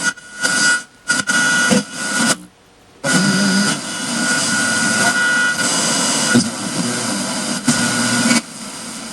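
Radio static from the Emerson MS9700's FM/AM radio: a loud hiss with a steady whistle through it. It cuts in and out several times in the first three seconds, then runs steadily.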